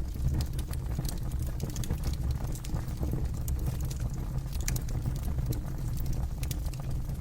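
Campfire burning with a steady low rumble and frequent sharp crackles and pops of the wood.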